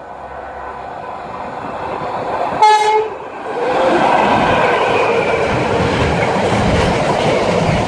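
Class 86 electric locomotive hauling a freight train through a station: its rumble builds as it approaches, a short loud horn blast sounds about two and a half seconds in, then the loud rush of the locomotive and wagons passing close by.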